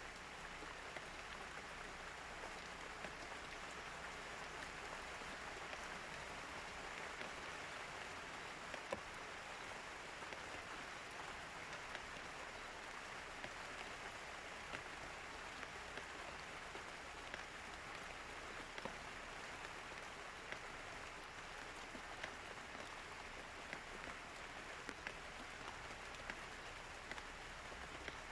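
Steady rain falling, an even patter with scattered sharper drip ticks.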